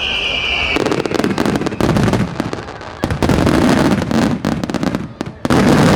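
Aerial fireworks exploding: a falling whistle that stops under a second in, then dense crackling and popping bangs in waves, the last loud wave near the end.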